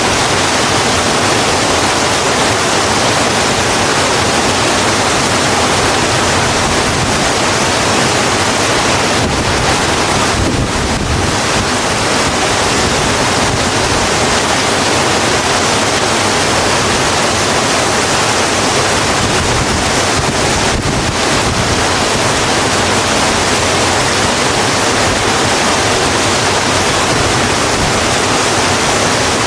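Steady, dense rain: an even hiss with no single drops or breaks standing out.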